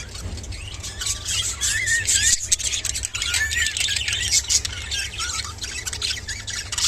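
Budgerigars chattering and warbling: a dense run of quick chirps, squawks and short whistled glides, over a steady low hum.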